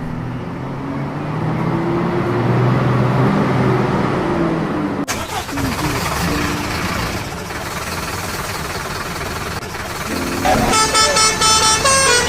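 Vehicle sound effects: engine noise with horn toots, which change abruptly about halfway through. A tune of separate notes comes in near the end.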